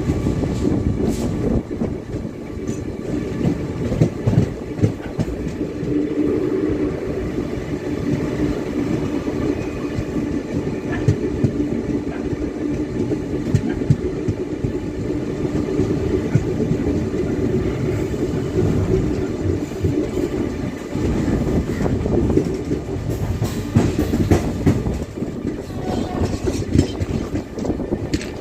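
Train running on the track, its wheels clattering over the rails with a steady rumble, dense with sharp clicks.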